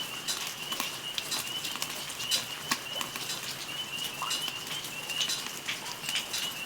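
Cooking fire crackling in a grill, with irregular sharp pops and snaps over a faint steady high-pitched tone.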